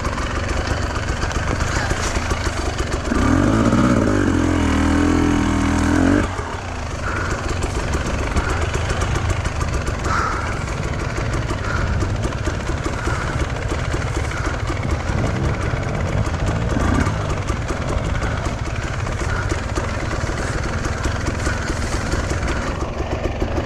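Enduro motorcycle engine running while riding. It revs up harder and louder from about three seconds in to about six seconds, then carries on at a steadier, lower pitch.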